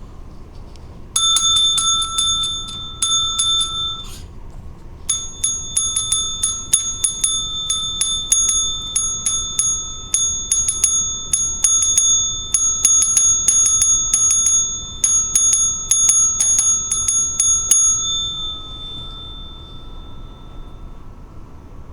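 Counter service bell struck by hand over and over, several dings a second, with a short break about four seconds in. After the last strike it rings out and fades.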